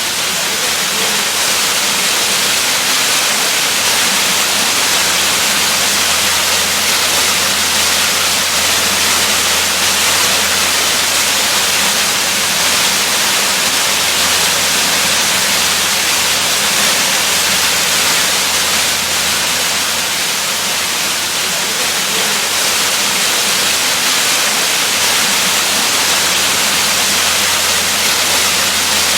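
Waterfall rushing: a steady, unbroken hiss of falling water, strongest in the upper range with a faint low hum beneath.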